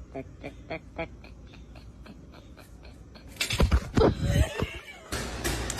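A dog panting in a quick, even rhythm, about three or four breaths a second, then a few louder, lower vocal sounds about three and a half seconds in. A steadier hiss takes over near the end.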